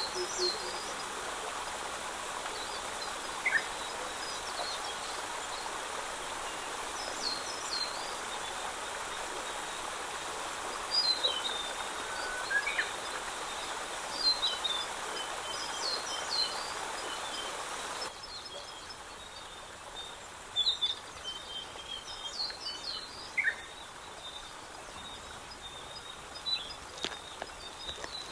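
Small birds chirping and calling again and again over a steady background rush. The rush drops away suddenly about two-thirds of the way through, leaving the birdsong over a quieter background.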